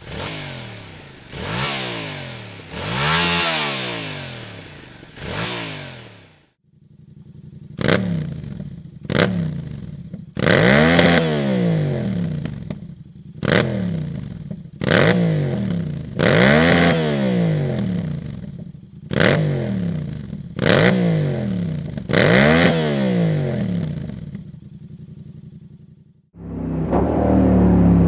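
A Yamaha MT-07's 689 cc parallel-twin engine breathes through a Dominator HP8 full exhaust system. It is revved in about a dozen short throttle blips, each rising and dropping back to idle, with a brief lull about six seconds in.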